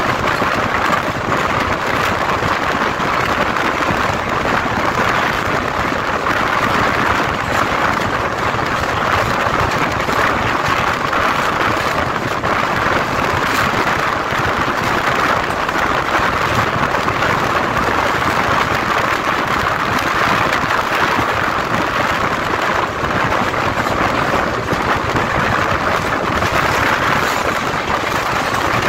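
Running noise of a passenger express train heard from on board: a steady, loud rush of wind and wheels on the track, with no clear rhythm or change.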